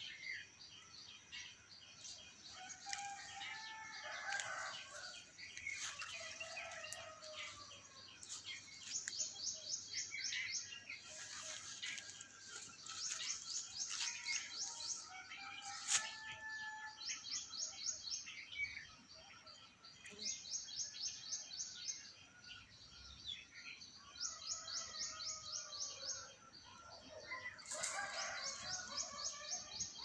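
Several birds calling and singing outdoors: short bursts of rapid high notes repeat every few seconds, with lower warbling and chirping calls between them. A single sharp click comes about halfway through.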